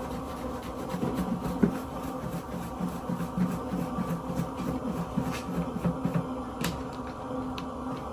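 Crappie fillets being shaken in a shaker container of fish-fry breading: a run of rhythmic soft knocks and rubbing from about a second in until about six seconds in, over a steady hum.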